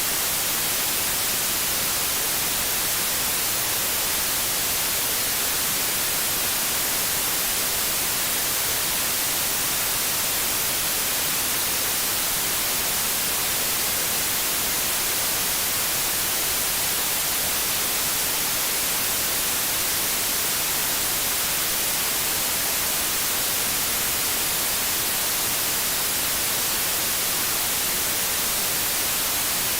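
Television static: a steady, even hiss of white noise, brightest in the treble.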